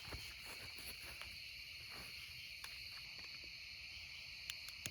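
Faint, steady trilling of crickets, with a few soft clicks.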